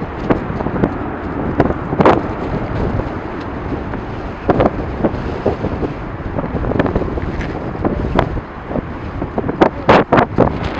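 Strong wind buffeting the camera microphone in irregular gusts, giving a loud rumble broken by sudden thumps.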